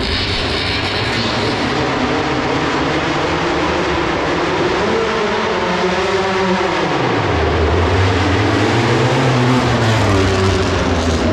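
Honda RC213V-S V4 engine revving hard on a sprint run. Its pitch rises and then falls sharply about halfway through, then settles into a lower note.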